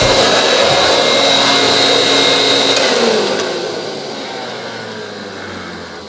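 Vacuum cleaner running steadily with a high whine, then switched off about three seconds in, its motor winding down with a falling pitch and fading away.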